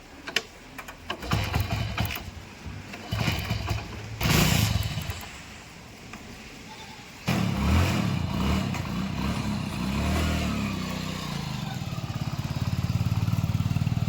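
Scattered knocks and clatter, then about halfway through a diesel engine starts up suddenly, changes pitch for a few seconds and settles into a steady pulsing run.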